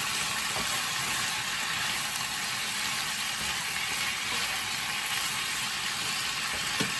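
Chicken breast strips sizzling steadily as they fry in a skillet, turned now and then with a wooden spatula.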